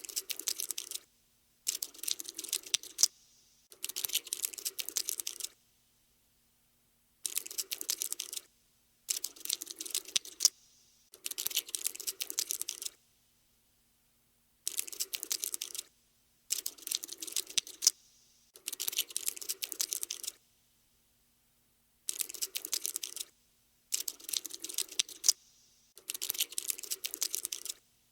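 Cockroach scuttling sound effect: bursts of rapid dry clicking and skittering, each about one to two seconds long, stopping and starting again about a dozen times with short silent gaps between.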